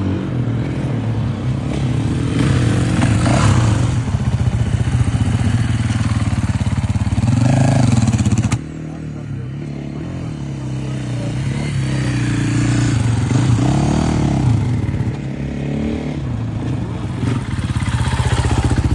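Motocross motorcycle engine running hard off-road, its pitch rising and falling as the rider opens and closes the throttle. The sound drops abruptly about halfway through, then builds again.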